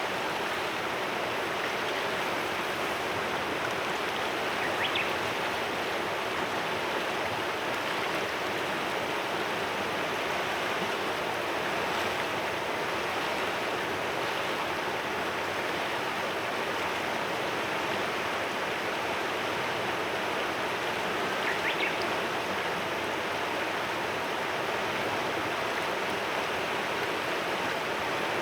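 A river flowing steadily with an even rushing murmur. Two short bird chirps come through, about 5 seconds in and again near 22 seconds.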